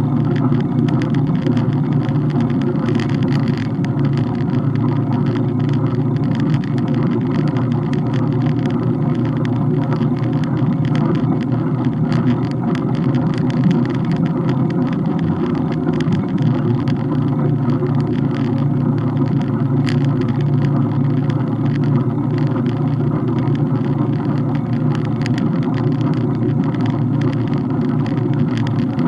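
Steady rumble of wind and road noise from a bike in motion, with a constant scatter of small ticks and rattles.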